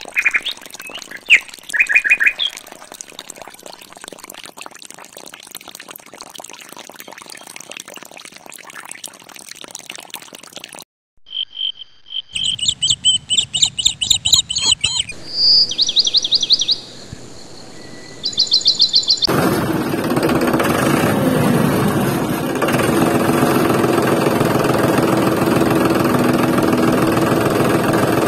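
Birds chirping in short calls at the start and again in quick repeated trills about halfway through, with faint crackling between. For the last third a louder, steady sound with a low drone takes over.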